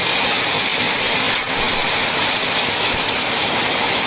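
Heavy rain pouring steadily: a loud, dense, even hiss with no let-up.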